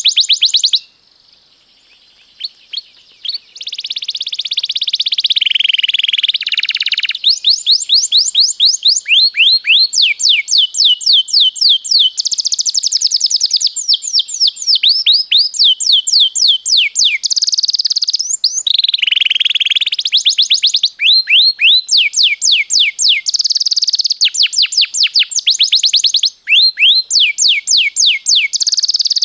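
Domestic canary singing a long song of fast rolling trills and rapid repeated notes. The song stops for about two seconds shortly after the start, with only a few faint clicks, then resumes and carries on.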